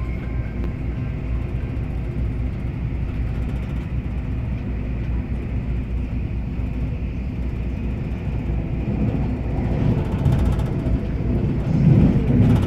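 Steady low rumble of a train running, heard from inside the carriage, growing louder near the end.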